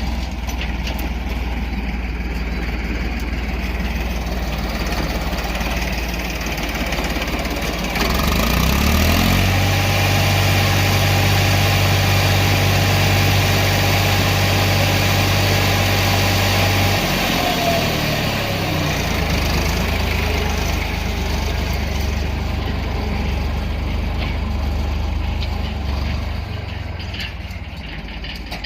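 Tractor diesel engine running steadily, sped up about eight seconds in and held at higher revs for several seconds, then dropping back to idle.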